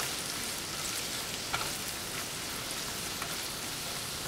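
Sliced mushrooms and shallots sizzling steadily in butter in a stainless steel skillet on low heat, with a few light clicks as a utensil stirs them against the pan.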